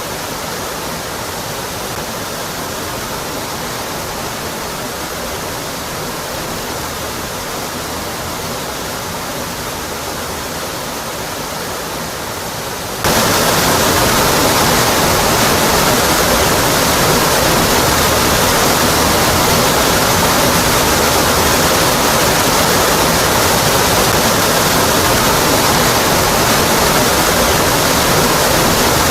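Waterfall tumbling onto rock: a steady rush of falling water that suddenly steps up louder and brighter about halfway through.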